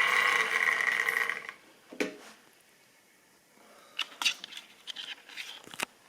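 Model railway locomotive's small electric motor whining steadily with a gear hum, then cutting off about a second and a half in. A single knock follows, then a run of light plastic clicks and taps, like stock being handled on the track.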